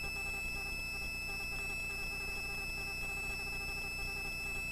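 Helicopter cabin noise picked up faintly through the headset intercom: a steady low hum under constant high-pitched whine tones.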